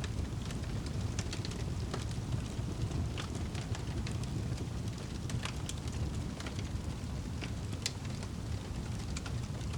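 Wood fire burning in a fireplace: a steady low rumble of flames with irregular sharp crackles and pops, a few a second.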